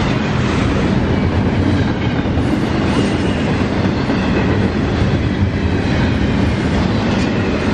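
Double-stack intermodal freight train's well cars rolling past: a steady, loud rumble and rattle of steel wheels on rail.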